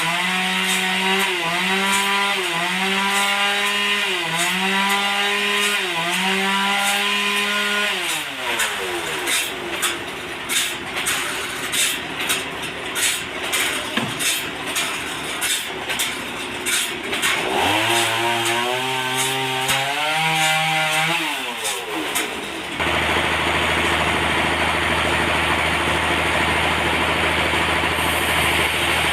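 Sawmill machinery whose engine pitch steps up and down about once a second, then gives way to several seconds of irregular knocking and clatter before the stepped engine sound returns. Near the end the sound changes abruptly to a steady engine drone.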